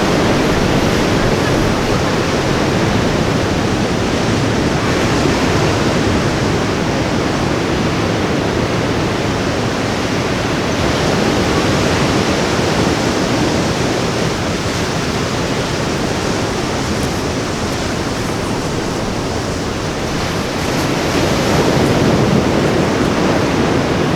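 Ocean surf washing continuously onto a beach, a steady rush that swells and eases slowly, loudest about three quarters of the way through.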